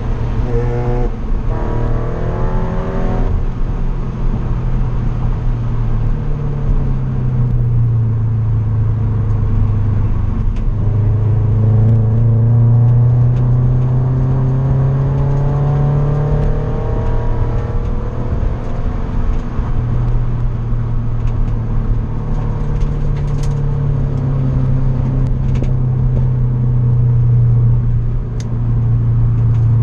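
Subaru BRZ's flat-four boxer engine heard from inside the cabin under load. Its pitch climbs with the revs and falls back several times as the driver works the manual gearbox, over steady road noise.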